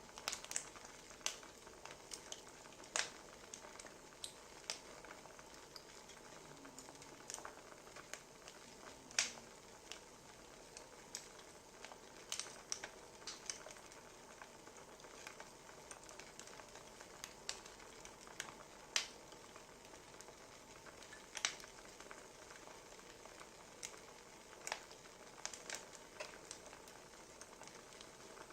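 Wood fire crackling: irregular sharp pops and snaps over a soft steady hiss, a few of them louder than the rest.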